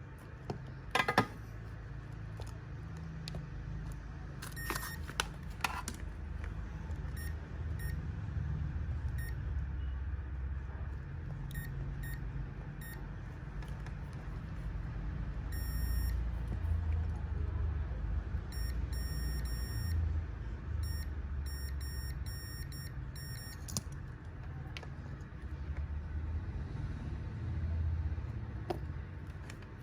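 Short electronic beeps, some single and some in quick runs, over a steady low hum, with a few sharp clicks near the start.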